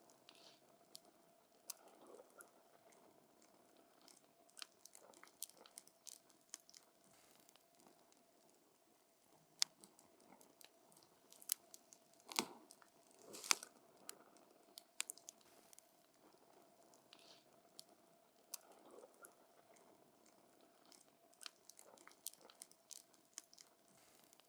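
Wood campfire crackling: irregular sharp snaps and pops from the burning logs, with a handful of louder pops about halfway through.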